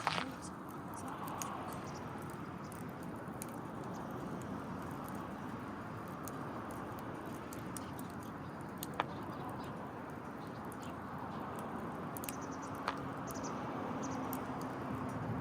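Wood fire crackling in a Kamado Smart Grill B6 fire grill: scattered soft ticks over a steady low background hum, with two sharper pops in the second half. A faint steady low drone joins near the end.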